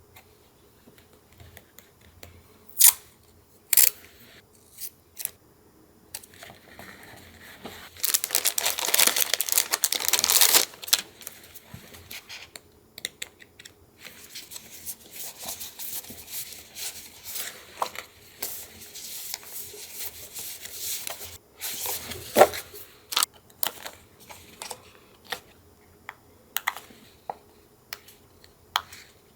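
Paper handled for junk-journal collage. A few sharp taps open it, then about eight seconds in comes a loud burst of paper tearing and crinkling lasting a few seconds. Softer rustling and scattered clicks follow.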